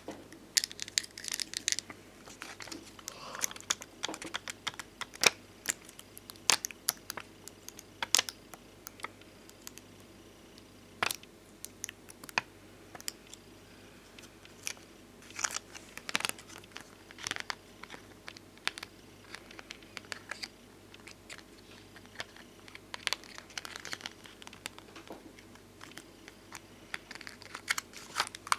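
Glossy bonbon drop stickers and ohajiki stickers being handled and peeled: scattered light taps and clicks mixed with short crinkling and peeling sounds.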